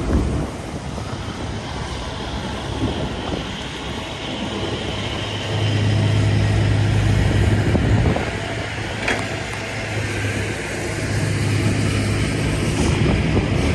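City street traffic: motor vehicles running past, with a low engine hum that swells about halfway through and again near the end.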